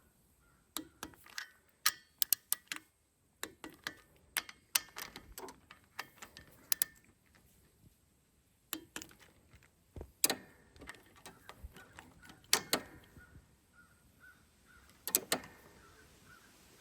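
Scattered sharp metallic clicks and clinks of a socket and torque wrench being worked on diesel injector nuts, with short quiet gaps between them.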